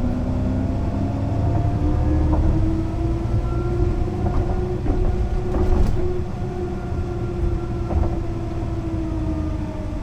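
Mercedes-Benz O 405 NÜ bus diesel engine pulling under load, its pitch climbing slowly over the first five seconds or so, then holding and easing off slightly near the end. A few short knocks and rattles sound over it.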